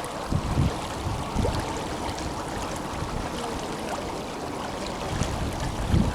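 Tenryū River flowing strongly, a steady rush of water, with a few low gusts of wind buffeting the microphone.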